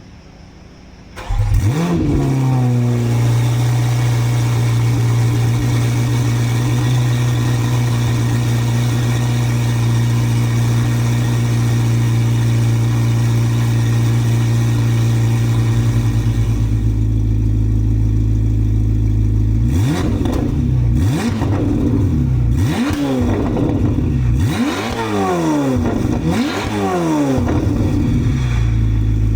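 Corvette ZR1X's twin-turbo LT7 V8, breathing through a Fabspeed aftermarket exhaust, starting about a second in with a quick flare of revs, then settling into a steady idle. In the last third comes a series of sharp throttle blips, each rising and falling, before it drops back to idle.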